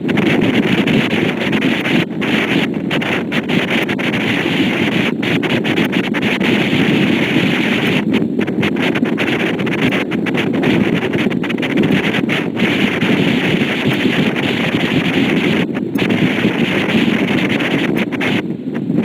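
Wind buffeting the microphone on a moving boat, a loud steady rush with many brief dropouts, mixed with the running of the boat and its wake.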